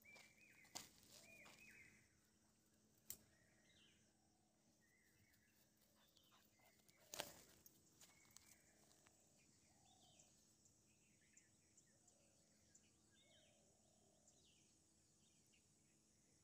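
Near silence: faint bird chirps scattered in the background, with a few soft clicks, the clearest about seven seconds in.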